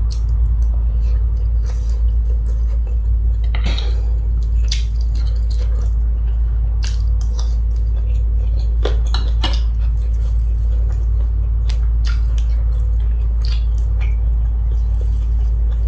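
Scattered light clinks and clicks of utensils and dishes during eating, over a steady low rumble.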